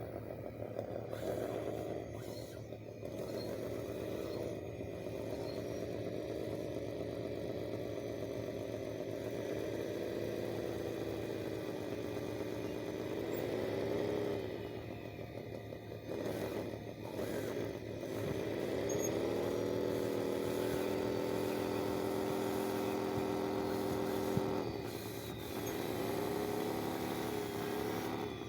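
Whine of a radio-controlled construction machine's electric motor, its pitch rising and falling as the machine works and dropping away briefly twice.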